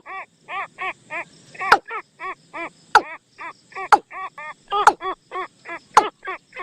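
Decoy recording of a bird call played to lure birds: a fast series of short, arched, pitched notes, about three to four a second, with a sharp click about once a second.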